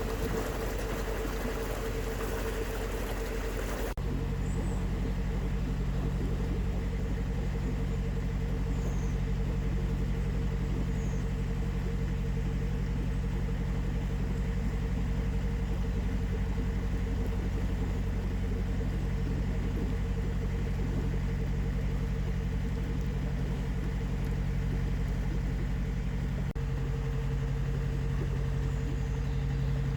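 Narrowboat engine running steadily at low, even revs. A hissy wash over the first few seconds cuts off sharply about four seconds in.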